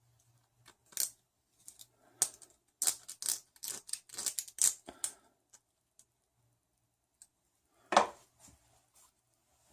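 Nylon zip ties being threaded and pulled through their heads on a 3D-printer part, a quick run of short ratcheting clicks and rasps, then one louder knock near the end.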